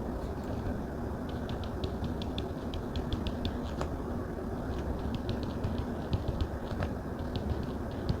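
Quick light taps of a stylus on a Samsung Galaxy tablet's glass screen, several a second in irregular runs, with a short pause around the middle, over a steady low background noise.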